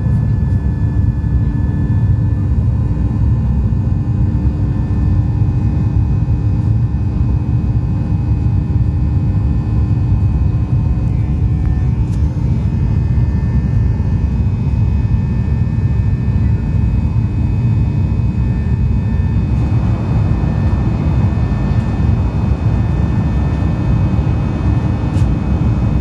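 Cabin noise of a Boeing 737 airliner under way: a steady, loud low rumble of the jet engines and airflow with faint steady hum tones. About twenty seconds in, a rushing hiss grows louder over the rumble.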